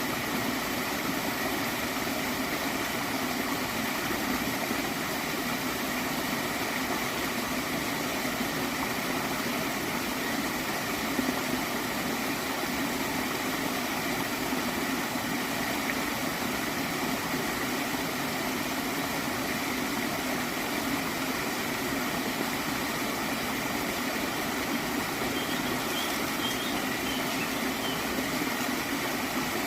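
Stream water flowing steadily with a continuous gurgle, an even rushing wash that holds the same level throughout.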